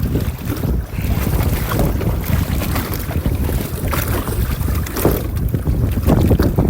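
Strong wind buffeting the microphone in gusts, a heavy low rumble over the open sea.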